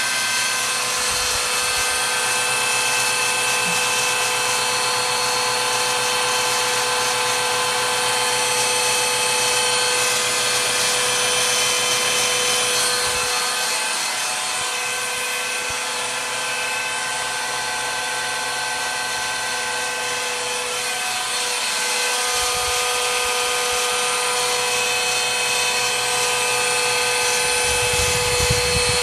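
Electric drill running steadily with a whine, spinning the oil pump through a priming shaft to pre-lube a big-block Chevy 454 V8 before its first start.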